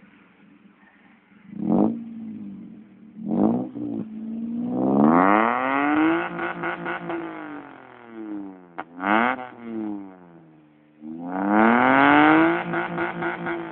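Toyota Avanza's four-cylinder engine revved through an aftermarket header and GT Racing exhaust: low idle, two short throttle blips about two and three and a half seconds in, a long rev that climbs and falls back, a quick blip near nine seconds, then another held rev near the end.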